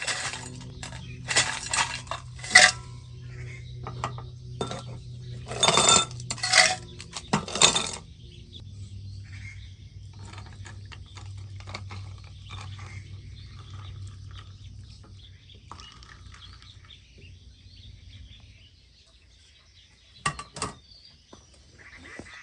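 Metal pots, pans and utensils clinking and clattering as camp cookware is handled, with a run of loud clatters over the first eight seconds and two more sharp clinks near the end.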